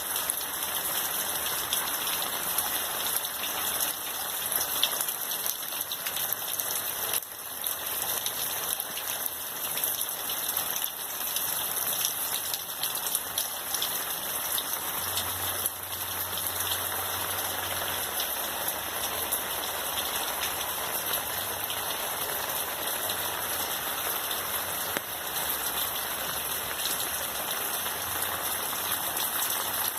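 Steady rain falling on garden plants: a continuous hiss with many small drop hits.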